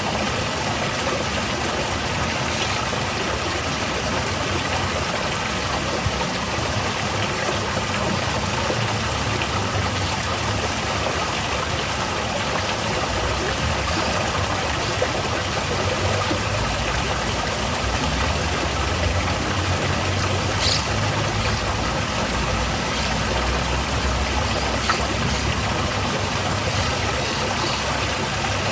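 Garden waterfall pouring steadily, a constant rush of falling water. A low rumble underneath grows stronger in the second half.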